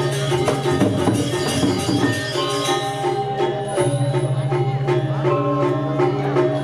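Balinese gamelan playing: metallophones ring a repeating melodic figure over a held low tone, with many quick percussive strikes on top.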